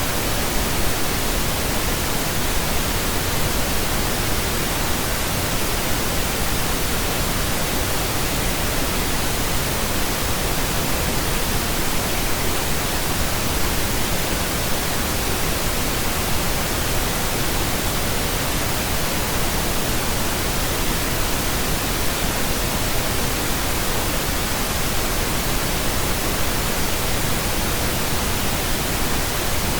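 Steady synthetic pink noise: an even, unchanging hiss across the whole range.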